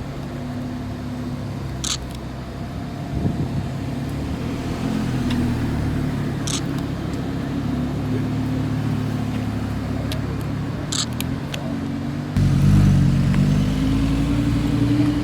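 Car engines running, with a louder engine cutting in about twelve seconds in and rising in pitch as it accelerates. A few short sharp clicks sound in between.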